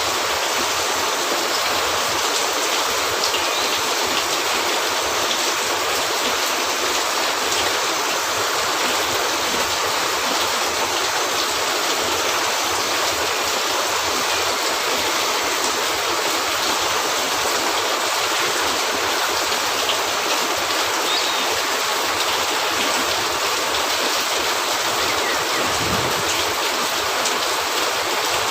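Steady rain falling on a cabin roof: an even, unbroken hiss that holds the same level throughout.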